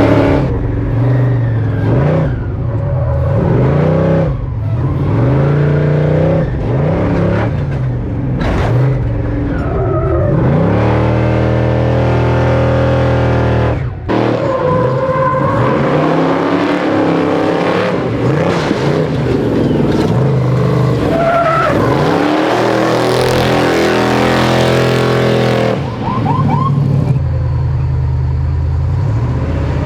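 Prerunner race truck's engine revving hard and falling back over and over, its pitch rising and dropping with each throttle change.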